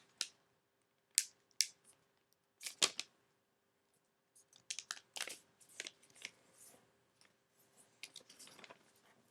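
A sheet of origami paper being folded and creased by hand: crisp, short rustles and scrapes as the paper is handled and fingers run along a fold. The strokes come in bunches, a few in the first three seconds and a denser run in the second half.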